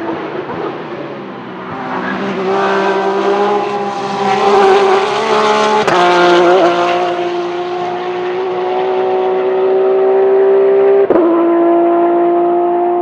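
Race car engine running hard at high revs. Its note climbs over the first few seconds, wavers briefly about halfway through, then holds high and rises slowly. There is a single sharp click near the end.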